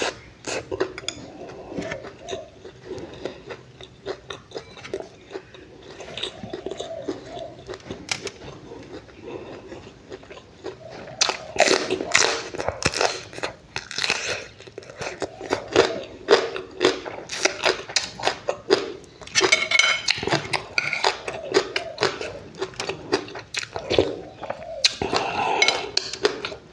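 A person chewing and biting food close to the microphone, with crisp crunching bites that come thick and fast from about eleven seconds in.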